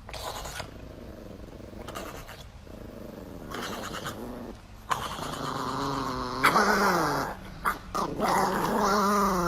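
A pet animal calling out in long, wavering cries that rise and fall in pitch. The cries start about halfway through and are loudest about two-thirds of the way in and again near the end.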